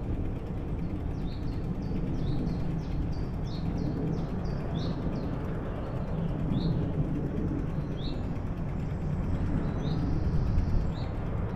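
A songbird chirping with short, high, rising notes: a quick run of them in the first few seconds, then single chirps about once a second. Under it runs a steady low rumble of wind and movement from the bicycle ride.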